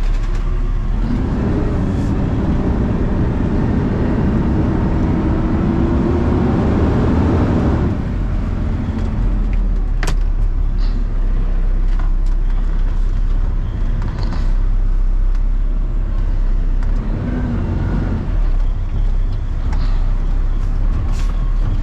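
Truck engine and road noise heard from inside the cab while driving, a steady low rumble. For several seconds near the start the engine is louder, with a whine that rises slightly and then falls away, as under acceleration.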